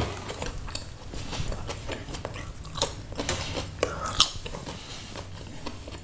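Close-up chewing of mie Aceh noodles, with many small clicks from mouth and teeth.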